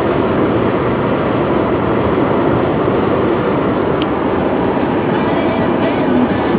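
Steady rumble of a car being driven: engine and tyre noise heard from inside the cabin.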